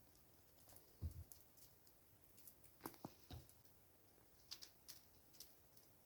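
Near silence with faint, scattered crackles and pops from a willow-wood campfire burning, and a soft low thump about a second in.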